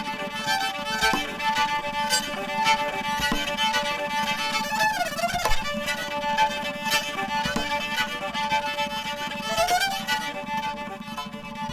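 Background music led by a violin playing long held notes, with a sliding note about five seconds in and again near the end.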